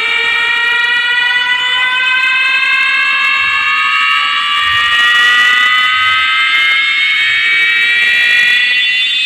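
A loud, siren-like synthesized tone played through a large sound-system rig during a DJ sound check. It is one sustained pitch with overtones, rising slowly and steadily, like a DJ riser effect.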